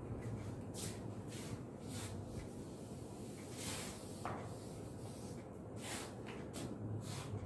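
Chalk scratching on a blackboard in short, irregular strokes as writing and ruled lines go up, over a steady low hum.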